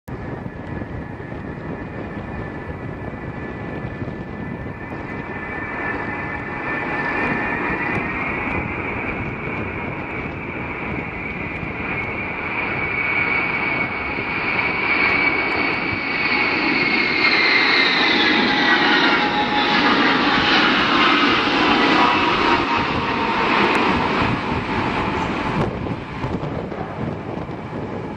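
Ilyushin aircraft's engines running loud with a high whine. The whine holds steady, then slides down in pitch past the middle as the sound peaks, easing off near the end.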